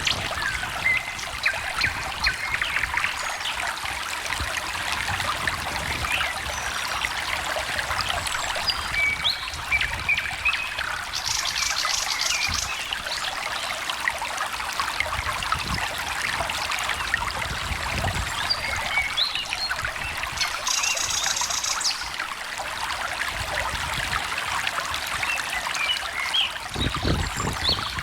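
A small stream trickling and babbling steadily, with birds chirping here and there over it; a high, fast bird trill comes twice, about a third and about three quarters of the way in.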